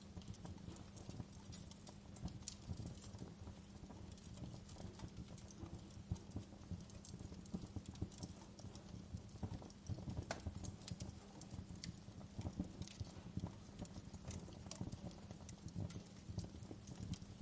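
Wood fire burning: a steady low rumble with irregular crackles and sharp pops scattered throughout.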